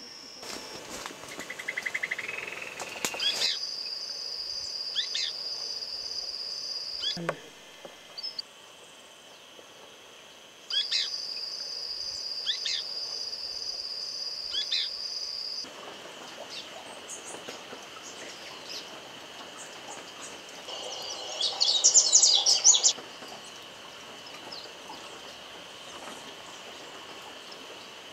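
Forest sounds: a steady high-pitched insect drone with repeated short bird chirps over it, in segments that start and stop abruptly. A loud flurry of bird calls comes about three quarters of the way through.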